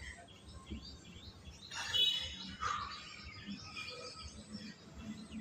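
Birds chirping, with scattered short calls and a louder one about two seconds in.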